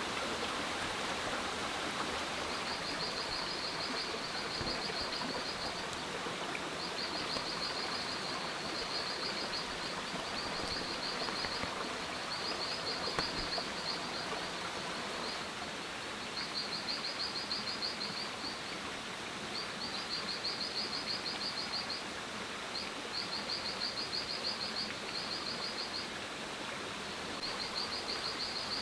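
Jungle ambience: a high, rapid pulsed trill repeats in bouts of about two seconds with short pauses, over a steady rushing background.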